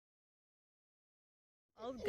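Dead silence, then a woman's voice starts near the end with 'oh'.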